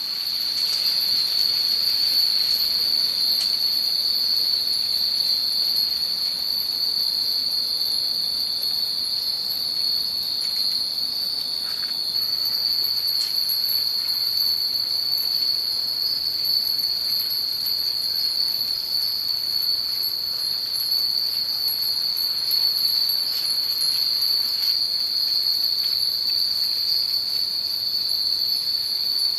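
Many Nanbu cast-iron wind chimes ringing together in the wind, their high tones merging into one continuous shimmering ring. The ring swells in at the start and then stays steady, with a few faint single strikes on top.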